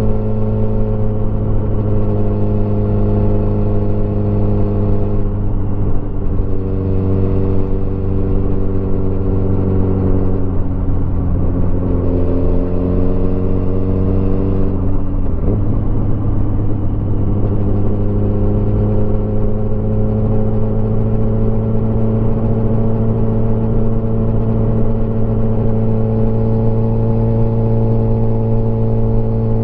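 Motorcycle engine running under way at steady road speed. Its note shifts in pitch several times in the first half, with a sharp drop and recovery about halfway through, then holds steady and creeps slowly higher.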